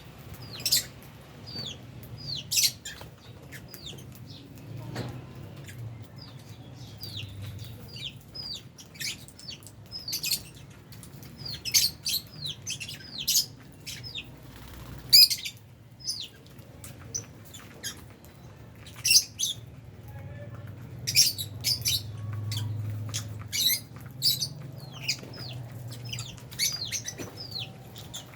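Flock of albino and Fisher's lovebirds chirping and calling: many short, high, downward-sliding chirps and shrill shrieks overlapping throughout, over a low steady hum.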